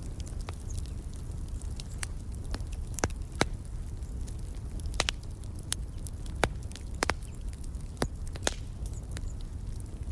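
Wood fire crackling in a fireplace: a steady low rumble of burning with irregular sharp pops and snaps, a few louder pops about three and a half and six and a half seconds in.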